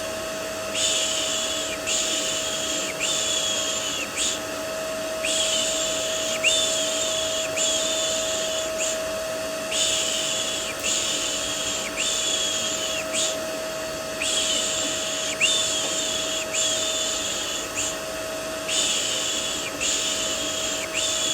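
Soothing 'shh' shushing repeated in runs of three or four strokes with short pauses, over the steady drone of a running vacuum cleaner, used as white noise to settle a baby to sleep.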